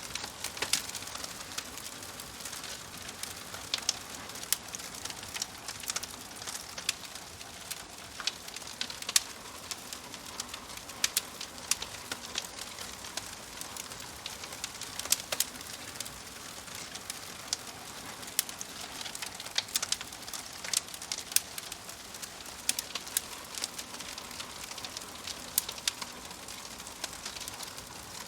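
Wood fire crackling: irregular sharp pops and snaps, a few louder than the rest, over a steady soft hiss.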